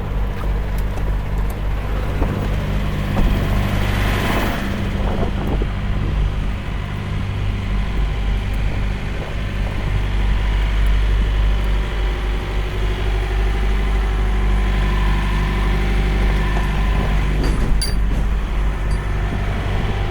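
Peterbilt semi-truck's diesel engine idling steadily, with a brief hiss about four seconds in and a few light clicks near the end.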